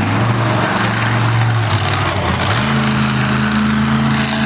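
A loud vehicle engine running hard, its pitch dipping near the start and stepping up about two and a half seconds in.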